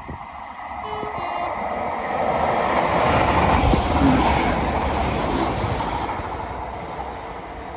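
A train passing by: the rumble builds, is loudest about three to four seconds in, then fades away.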